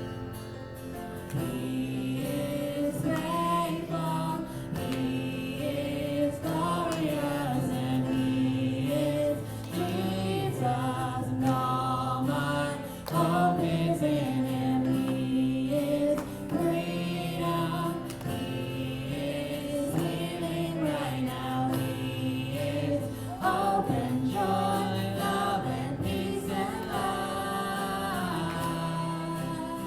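Music: a group of voices singing a song, choir-style, over instrumental backing.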